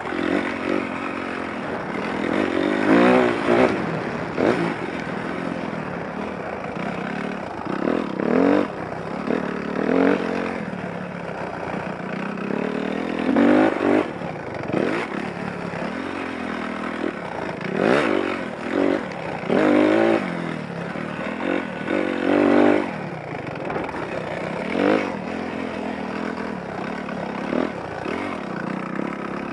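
Dirt bike engine being ridden hard, revving up and dropping back again and again, with a surge of throttle every two or three seconds.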